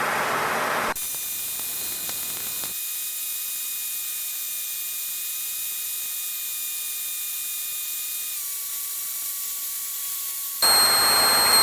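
Steady radio static between transmissions, a hiss with a few faint thin whine tones that shift slightly lower about eight seconds in. Near the end the hiss jumps louder and brighter, with higher whine tones.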